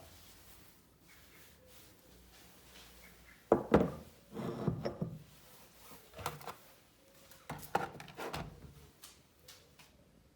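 A series of hard knocks and clunks, the loudest about three and a half seconds in, with more around six and eight seconds, like objects being handled and set down on a hard surface.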